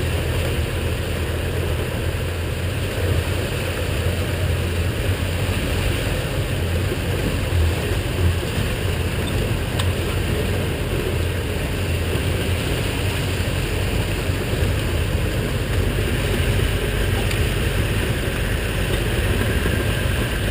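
Vehicle engine running steadily, a continuous low hum with road or water noise.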